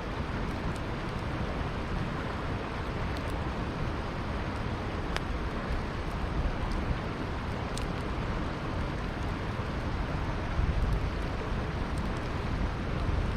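Campfire crackling with occasional sharp pops over the steady rushing of a flowing river.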